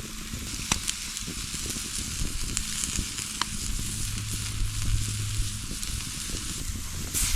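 Campfire with chicken roasting over it: a steady sizzling hiss with a few sharp pops, and a louder burst just before the end.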